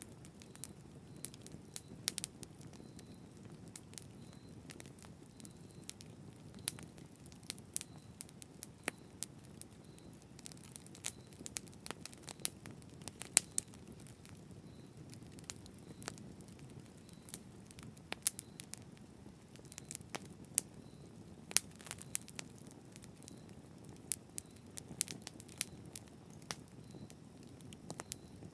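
Campfire burning: a low, steady rush of flames with frequent sharp, irregular crackles and pops of burning wood.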